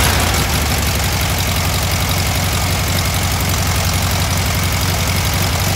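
VW Thing's air-cooled flat-four engine running at a steady, even fast idle. The idle is really high, and it sounds pretty good.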